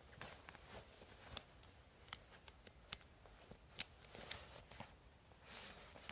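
Near silence with scattered faint clicks and soft rustling, with two sharper ticks about one and a half and four seconds in.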